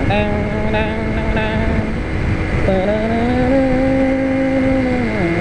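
Low-displacement motorcycle engine running at road speed with steady wind rush. The engine note dips and climbs back about two and a half seconds in, then falls near the end as the bike slows.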